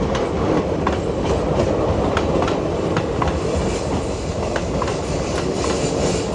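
Train rolling past at speed: a steady rumble of wheels on the rails with a run of sharp clicks as the wheels cross rail joints.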